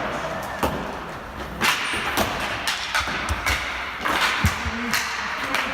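Ball hockey play: a string of sharp knocks and thuds from sticks striking the ball and each other, over a steady din of play.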